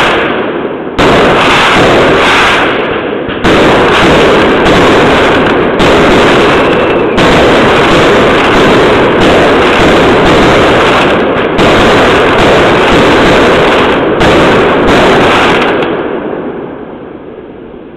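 A barrage of fireworks going off close by: dense, loud crackling and banging, with a fresh burst starting suddenly every few seconds. It dies away over the last couple of seconds.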